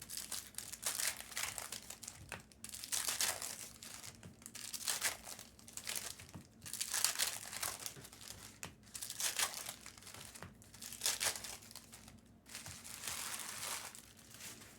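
Foil wrappers of Bowman Chrome basketball card packs crinkling and tearing as packs are ripped open and handled, in repeated bursts of rustling.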